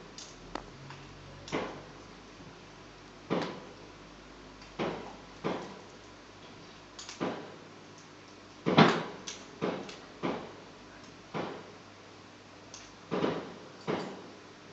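Fireworks exploding: a string of sharp bangs at irregular intervals, each trailing off in a short echo, the loudest about nine seconds in.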